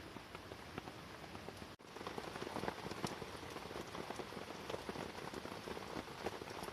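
Steady rain pattering on the tent fabric, a dense hiss of many small drop ticks, heard from inside the tent. The sound cuts out for a moment about two seconds in and comes back a little louder.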